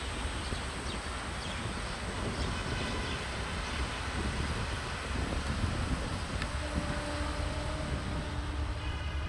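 Bangladesh Railway intercity passenger train running on the rails, a steady low rumble of wheels and coaches. A faint steady tone joins in about seven seconds in.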